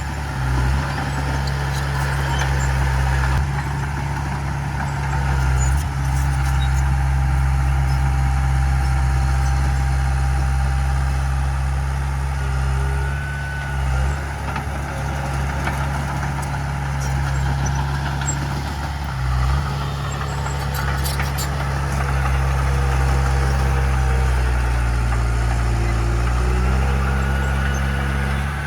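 Heavy diesel earthmoving machine running with a deep, steady drone that dips briefly a few times, with faint squeaking tones above it.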